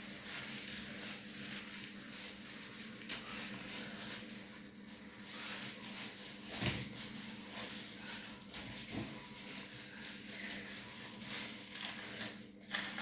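Faint, irregular rustling and light handling taps from hands working through hair, over a steady low electrical-sounding hum.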